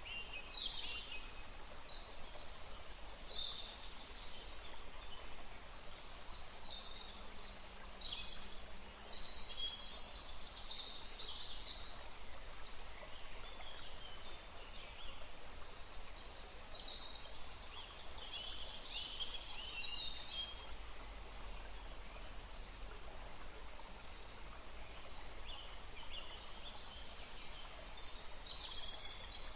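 Wild songbirds chirping and warbling in many short, overlapping calls, over a steady rush of wind in trees.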